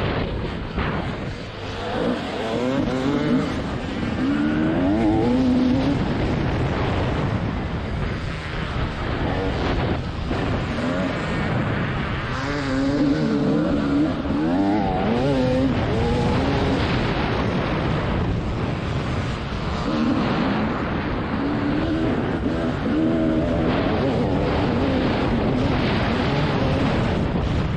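Single-cylinder two-stroke engine of a TM 300 motocross bike revving hard and shutting off over and over, its pitch climbing and dropping with each burst of throttle.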